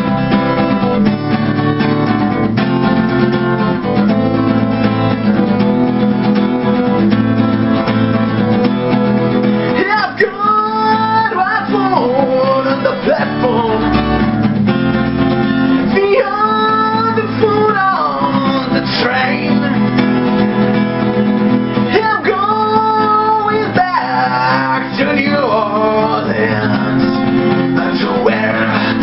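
Music: acoustic guitar accompaniment in an instrumental break between verses, with a sliding melody line over it from about ten seconds in.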